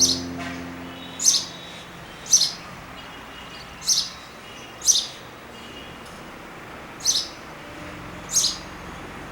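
A small bird chirping: short, sharp, high chirps repeated about once a second, seven times, some doubled.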